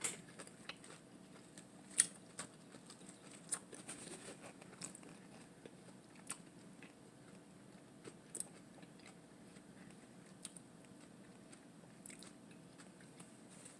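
Close-miked chewing of a lettuce-wrap hamburger: faint crunching and scattered wet mouth clicks, with a sharper crunch about two seconds in.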